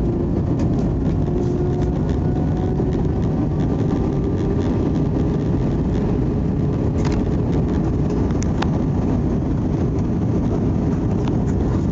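Steady cabin noise of an Airbus A320-200 in flight: a loud, even rumble of engines and airflow, with a couple of faint clicks in the second half.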